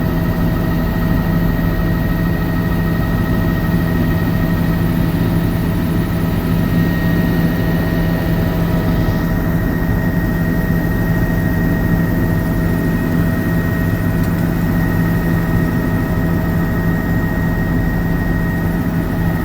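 Helicopter running steadily: a loud, even drone with a deep hum and several steady higher whining tones that hold without change.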